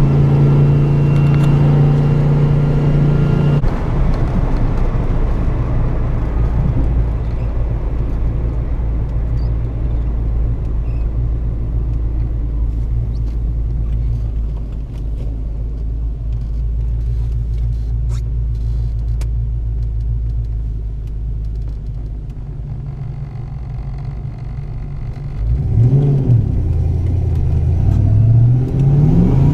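1987 Ford Mustang GT's 5.0-litre V8 running on the move. The engine holds a steady higher note for the first few seconds, then drops back to a low rumble, revs up and down about three-quarters of the way through, and rises again as it accelerates near the end.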